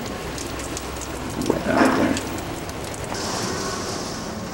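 Heavy rain pouring down as a steady hiss of drops with scattered taps. A brief louder swell comes about two seconds in, and a higher steady hiss joins about three seconds in.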